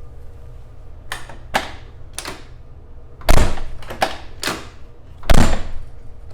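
Corvette C3 door being swung shut twice, two loud heavy thuds about two seconds apart, among several lighter knocks and clicks from the door and latch. The door is not latching: its striker is misadjusted.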